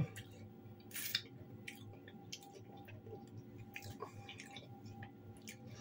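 A person quietly chewing a mouthful of fried potatoes, with small scattered mouth clicks, over a faint steady hum.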